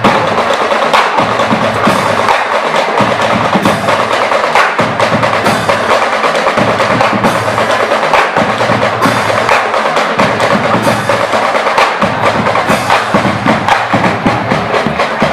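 Marching band playing, driven by a dense, fast rhythm of drum and percussion strikes.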